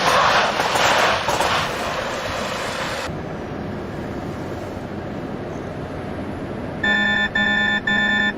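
Compressed air hissing loudly from a truck's air brakes, surging twice and cutting off abruptly about three seconds in. Near the end a rapid, evenly repeating electronic beeping starts.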